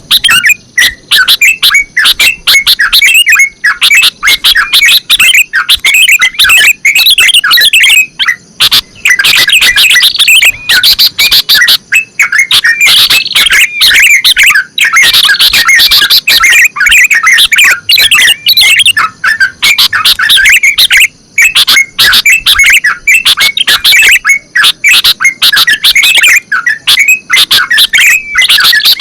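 Bulbuls singing loudly, a dense, almost unbroken stream of quick chirping notes.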